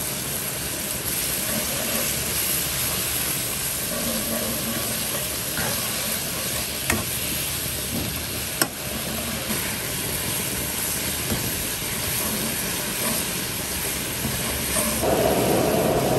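Conch slices sizzling in oil in a nonstick wok while a metal spoon stirs them, with two sharp clicks of the spoon on the pan about seven and eight and a half seconds in. A louder steady rushing sound joins near the end.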